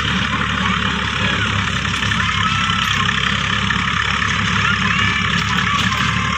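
A motor running steadily, without pause, like an engine idling.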